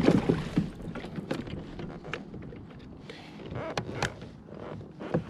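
Knocks and clatter of gear being handled aboard a kayak, with a heavy thump right at the start and scattered lighter clicks after it.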